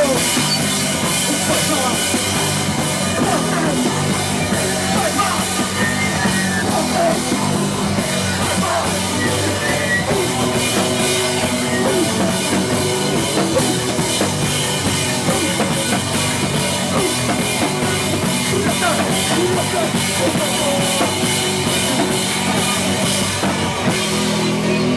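Live rock band playing loudly, with a drum kit driving a steady beat under bass and guitars. The cymbals stop near the end.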